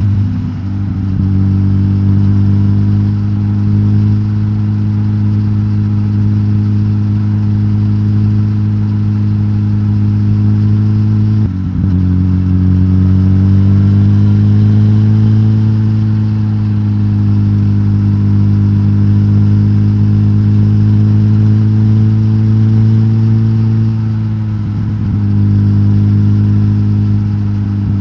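Suzuki GSX-S1000GT's K5-derived inline-four engine, de-catted and breathing through the stock exhaust, running at steady revs. About eleven and a half seconds in there is a brief break, after which the revs climb slowly and hold. They ease off again near twenty-five seconds.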